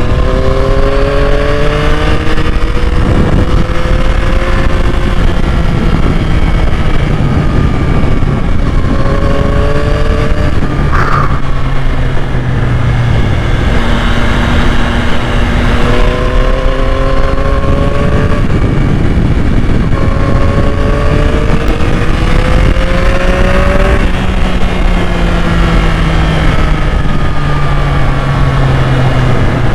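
2021 Yamaha MT-09's three-cylinder engine under way, pulling up through the revs again and again with a drop in pitch at each gear change. Heavy wind noise runs underneath.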